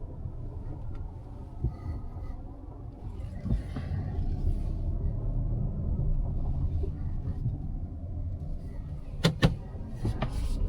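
Cabin noise of a Mazda CX-5 with the 2.5 e-SKYACTIV G engine on the move: a steady low rumble of engine and tyres that grows slightly louder. Two sharp clicks come close together near the end, followed by a smaller one.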